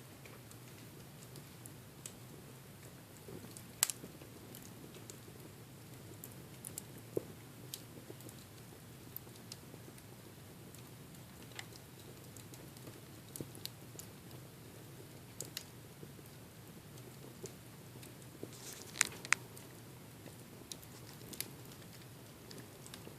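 Wood fire crackling in a fireplace: irregular sharp pops and snaps over a low, steady rustle of the flames. The loudest pop comes about four seconds in, and a close pair of loud snaps comes late on.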